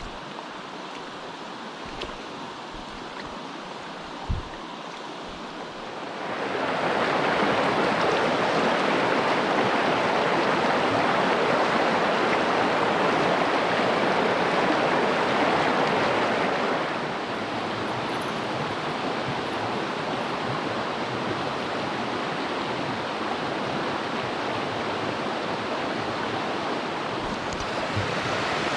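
Mountain stream rushing over rocks, a steady hiss of water that swells louder about a quarter of the way in and eases back a little past the middle. A couple of faint knocks early on.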